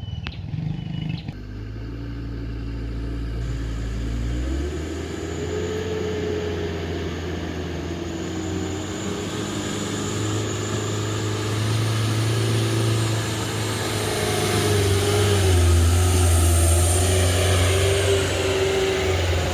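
Truck engine running under load and revving, its pitch rising about four seconds in and the sound growing louder near the end.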